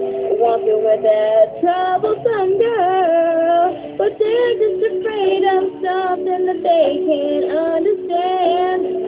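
Solo female voice singing a slow pop ballad over steady instrumental backing, with held notes and vibrato.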